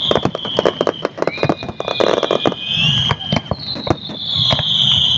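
Fireworks display: shells bursting in a rapid, irregular volley of sharp bangs and crackles, with several long, high-pitched whistles among them.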